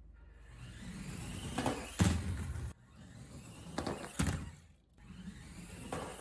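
Micro 1/24-scale RC monster truck driving: its small electric motor whines up in short bursts, with a thump about two seconds in and another about four seconds in, in short clips that cut off abruptly.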